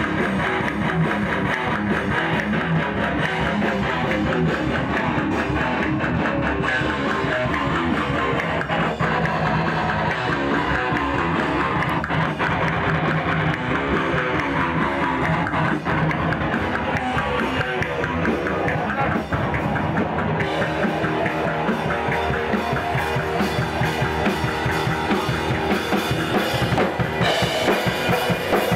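Metal music played on a drum kit and guitars, dense and continuous, with a change in texture about two-thirds of the way through.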